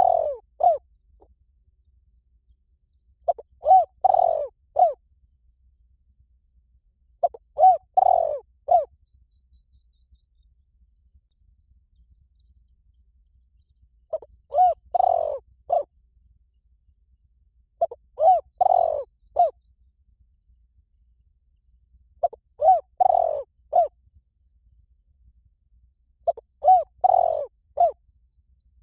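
Spotted dove cooing: phrases of a couple of short coos, one long louder coo and a final short coo, repeated about every four seconds, with a longer pause about ten seconds in.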